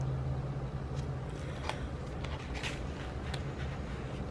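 Steady low hum, with a few faint, short clicks and rustles of stickers and paper being handled on a planner.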